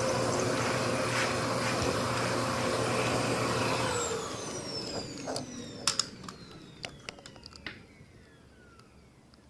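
Mitsubishi vacuum cleaner running steadily, then switched off about four seconds in, its motor whine falling in pitch as it spins down and fades. A few sharp clicks and knocks sound while it winds down.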